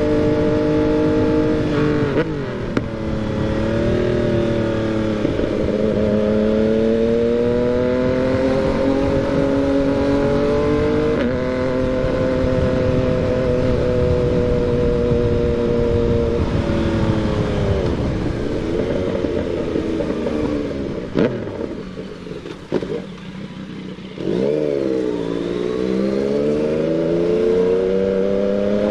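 Yamaha MT-09's inline three-cylinder engine being ridden, its pitch rising and falling with throttle and gear changes. It backs off to a quieter, lower run with a single sharp crack about three quarters through, then revs up again with a rising pitch near the end.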